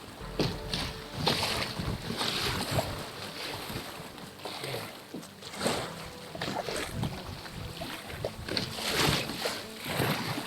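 Kayak paddle strokes and water splashing against the hull, in uneven surges every second or few, with some wind on the microphone.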